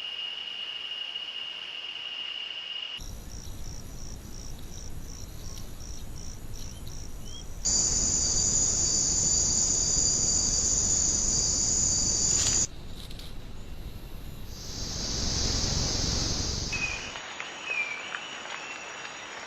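Insects calling, in short outdoor recordings that change abruptly every few seconds: a steady high buzz, then a rhythmic pulsed chirping, then a louder, shriller continuous drone about eight seconds in. Near the end there is a hiss and a few faint short chirps.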